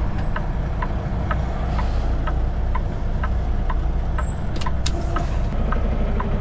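Semi-truck diesel engine running steadily at low revs while the truck is maneuvered back and forth into a loading dock, with a light ticking about twice a second. A brief hiss comes about three quarters of the way through.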